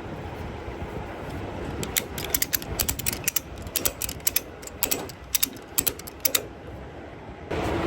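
Ratchet pawl clicking in quick, uneven runs as a cargo strap is tightened, over a steady low rumble. A louder steady rush comes in near the end.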